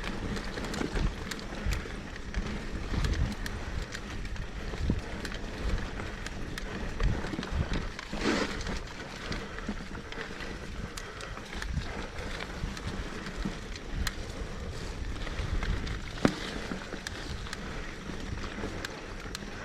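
Mountain bike rolling down a wet dirt trail: a steady rumble of tyres on the ground with frequent rattles and knocks from bumps, a louder rush about eight seconds in and a sharp knock about sixteen seconds in.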